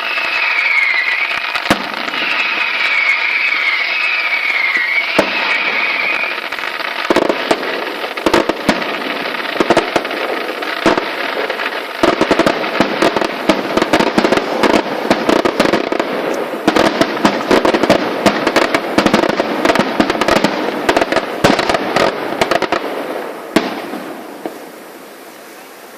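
Fireworks display: a wavering high whistle for the first six seconds, then a rapid barrage of bangs and crackling that builds into a dense finale and ends with a last bang a couple of seconds before the end.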